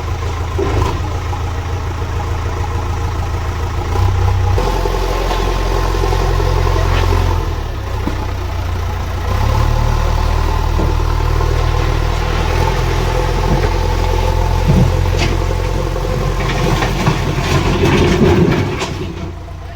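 JCB backhoe loader's diesel engine running, its level stepping up and down as the machine is manoeuvred, dropping away near the end, with a few short knocks along the way.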